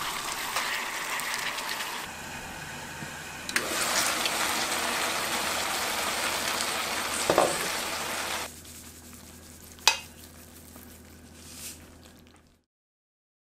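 Gochujang-marinated pork sizzling as it stir-fries in a nonstick wok, stirred with wooden chopsticks. The sizzle is loud for about eight seconds, then drops to a softer sizzle with a sharp click, and cuts off shortly before the end.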